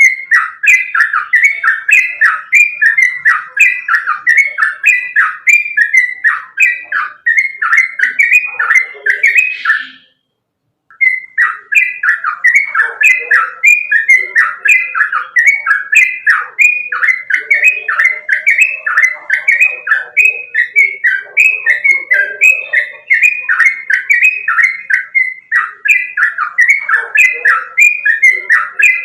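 Yellow-vented bulbul (trucukan) singing a fast, continuous run of bubbly, chirping notes, with a brief break about ten seconds in.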